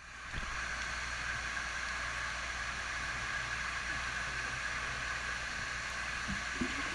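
Steady rush of flowing water, an even hiss with a low hum beneath.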